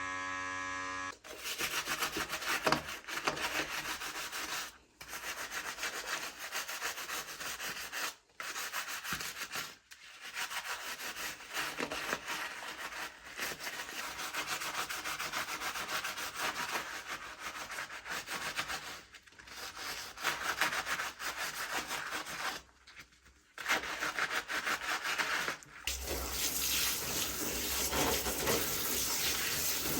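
A toy car remote controller being scrubbed clean: rough rubbing strokes with short pauses every few seconds. It starts with about a second of a small electric motor buzzing, and near the end gives way to a steady rush like a running tap.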